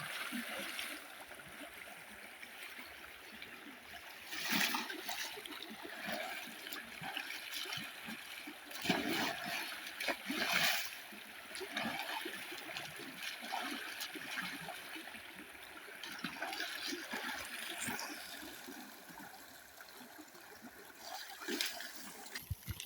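Water splashing and trickling as a person bathes in a river, with a few louder splashes about four, nine and ten seconds in, over a steady hiss of flowing water.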